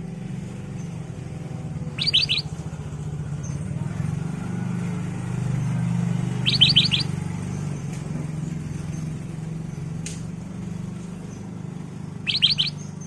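Black-crested bulbul (kutilang emas) calling three times, each a short quick run of three or four clear notes, a few seconds apart, over a steady low hum.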